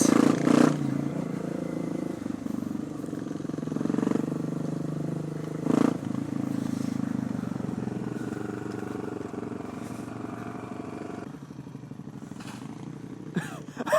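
Single-cylinder supermoto motorcycle engine running steadily at low revs, heard from the rider's position, with a few sharp knocks about half a second, four and six seconds in; the engine sound drops away after about eleven seconds.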